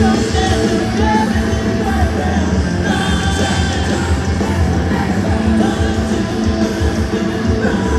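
Post-hardcore band playing live: loud distorted electric guitars, bass and drums under sung and yelled vocals.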